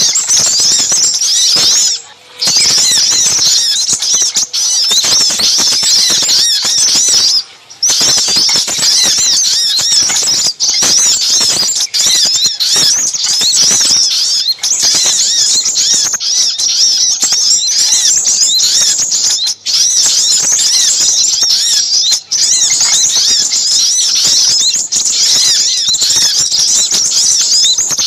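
Dense, noisy chorus of small songbird calls used as a trapping lure: sogok ontong calls mixed with sepah raja, rapid high chirps and twittering packed together without pause. The chatter breaks off briefly about two seconds in and again about seven and a half seconds in.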